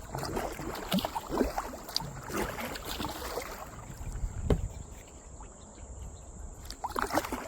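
Kayak paddle dipping and splashing in the water, strokes about once a second, with a sharper knock about halfway through.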